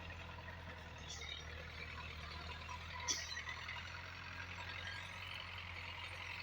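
Belarus 510 tractor's diesel engine running steadily, with a short click about three seconds in.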